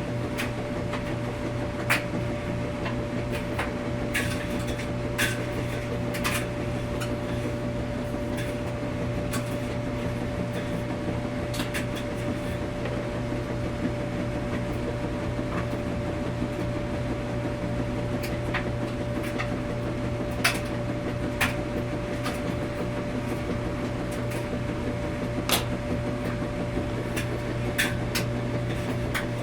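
Washing machine running with a steady low hum and a steady higher tone, broken every few seconds by irregular sharp clicks and light knocks.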